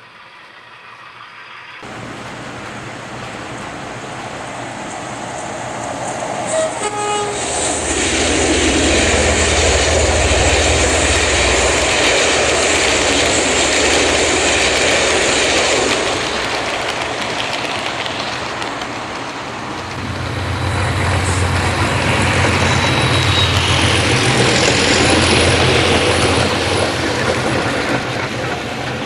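Train running sound, enhanced for a model railway: a short horn toot about seven seconds in, then the loud rumble and rail noise of a passing train, swelling twice with a dip between.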